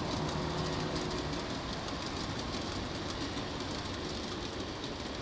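A freight train rolling past at a steady pace.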